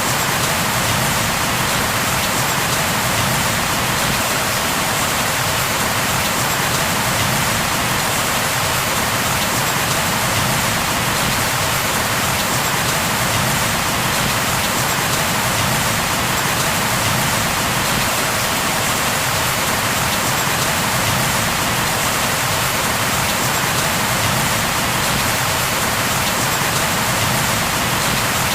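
Steady, heavy rain falling, an even hiss of rain on surfaces with no breaks.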